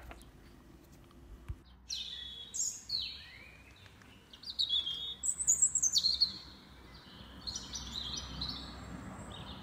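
A songbird singing in short, high chirping phrases and trills, many of the notes sliding downward. The song starts about two seconds in and is busiest in the middle.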